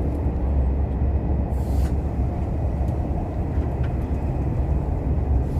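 Steady low rumble of a KTX high-speed train running, heard inside the passenger car, with a short hiss about a second and a half in.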